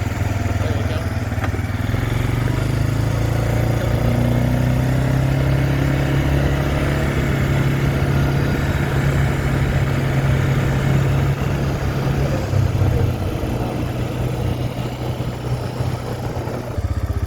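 A vehicle engine running steadily, its pitch slowly rising a few seconds in.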